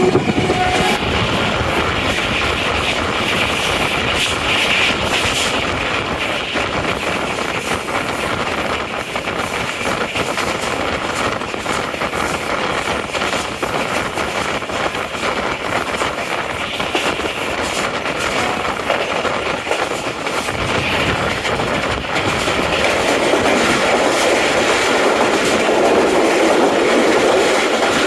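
Passenger express train running on the rails: a steady rumble and rattle of wheels and coaches, getting somewhat louder near the end. A horn blast dies away about a second in.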